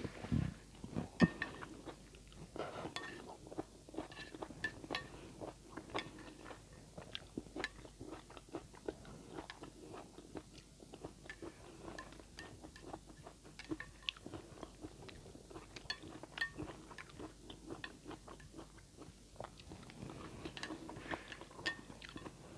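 Close-miked chewing of a mouthful of instant noodles mixed with bell pepper: many small, sharp wet mouth clicks and crunches in an uneven rhythm. A sharp knock about a second in is the loudest sound.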